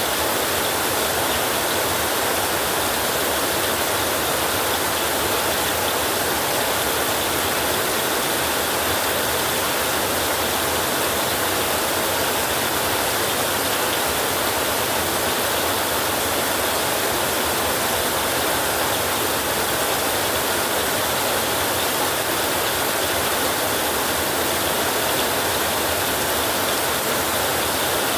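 Heavy rain falling on an old roof: a dense, steady hiss with no breaks or separate strikes.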